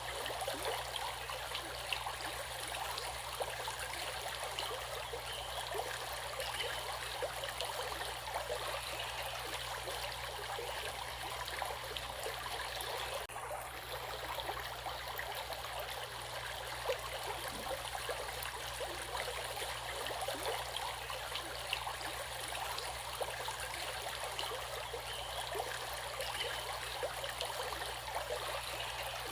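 Running water, steady and unbroken, with a dense babble of small splashes and trickles, as from a stream.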